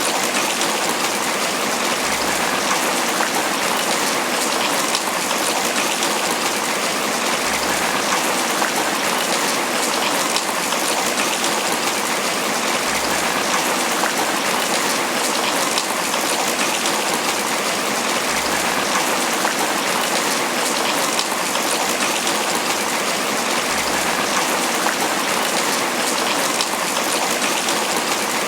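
Steady heavy tropical rain pattering on banana leaves, a dense, even wash of drops that does not let up.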